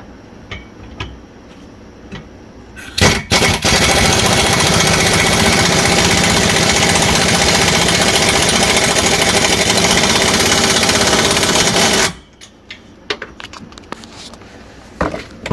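Electric welding arc crackling as an exhaust hanger is welded onto the pipe: a few short stutters about three seconds in, then one steady bead for about eight seconds that cuts off suddenly.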